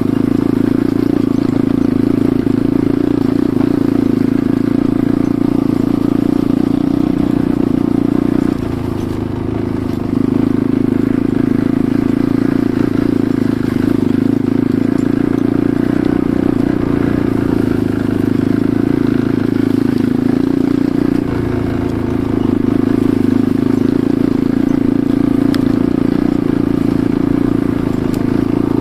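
Enduro motorcycle engine running steadily while riding, its note briefly dropping and shifting twice, about a third of the way through and again about three quarters through, as the throttle is eased.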